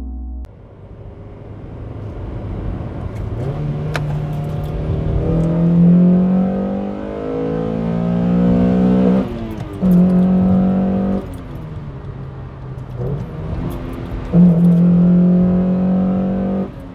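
Honda H22 four-cylinder engine of a CL1 Accord Euro R, with the intake resonator removed, revved high several times. Pitch climbs for several seconds and breaks off around 9 s, then the engine is held high and steady twice, briefly around 10 s and again for a couple of seconds near the end.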